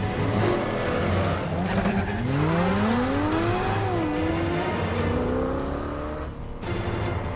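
Film car-chase soundtrack: sports car engines revving hard, one climbing steeply in pitch about two seconds in, with tyre squeal.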